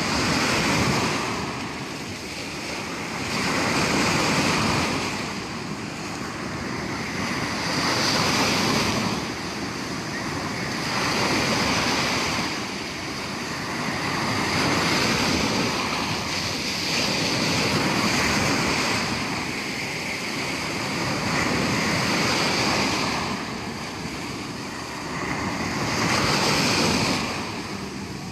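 Sea waves breaking on the shore: a rushing surf noise that swells and fades about every three to four seconds.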